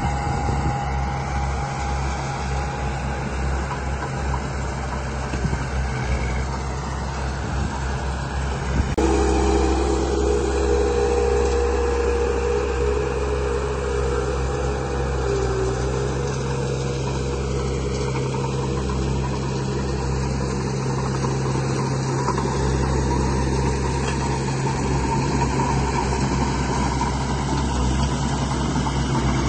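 Radio-controlled model bulldozer and dump truck running: a steady mechanical motor hum with steady tones, which shifts suddenly and gets a little louder about nine seconds in.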